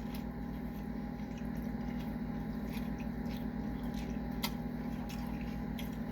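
A person chewing a mouthful of burger, with small wet clicks and squishes, over a steady low hum.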